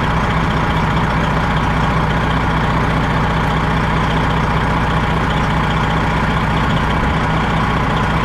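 Freightliner Classic XL semi truck's diesel engine idling steadily, heard from inside the cab, with the air-conditioning blower running in a constant hiss.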